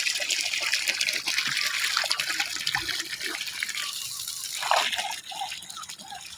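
Ducks and chickens eating: a dense, wet clicking and splashing of bills dabbling and pecking at feed, with a few short calls near the end.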